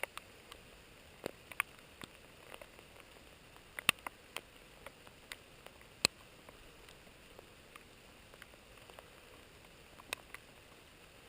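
Raindrops falling in light rain: scattered, irregular sharp ticks and taps over a faint steady hiss, a few louder drops standing out about four and six seconds in.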